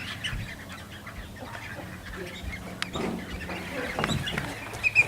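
A busy chorus of waterfowl and other birds calling over one another, with a louder call near the end.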